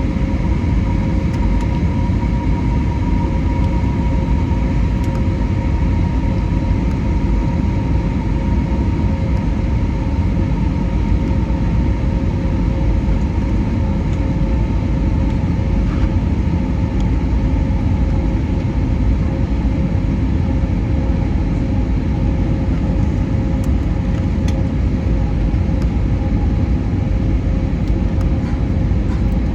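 Steady cabin noise inside an Airbus A320neo airliner: an even low rumble of airflow and engines, with a few faint steady tones above it.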